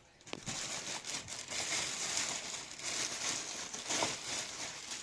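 Packaging crinkling and rustling as a subwoofer speaker is unwrapped by hand, starting about a third of a second in and continuing in uneven crackles.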